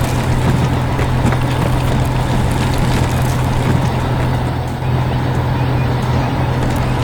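A steady, loud vehicle engine rumble with a constant low hum and no breaks.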